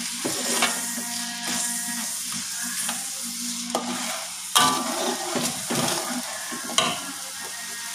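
Ground chili paste sizzling in hot oil in a metal wok, stirred with a metal spatula that scrapes and knocks against the pan several times, the loudest knock about four and a half seconds in.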